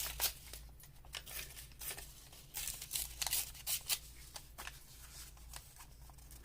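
Paper rustling and crinkling in irregular short bursts as junk-journal paper is handled and folded by hand, busiest a few seconds in.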